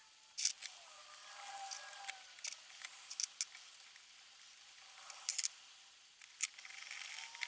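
Scattered light clicks and taps of small engine parts being handled and fitted by hand during reassembly of a two-stroke scooter engine.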